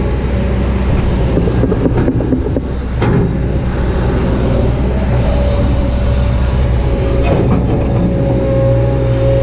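Kobelco SK200-8 hydraulic excavator's diesel engine running under working load, with a steady whine above the engine note. There is some rattling in the first few seconds and a brief dip in level about three seconds in.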